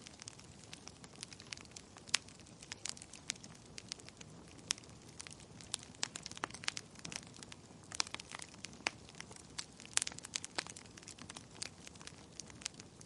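Wood fire in a fireplace crackling, with many irregular sharp pops of varying loudness over a low steady hiss.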